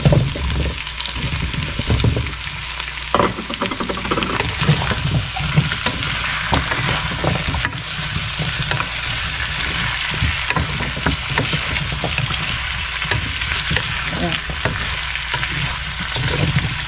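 Chicken drumsticks sizzling in a wok as chunks of potato and carrot drop in with a hit at the start. Then comes steady stirring with a wooden spatula, which scrapes and knocks against the pan over the continuous sizzle.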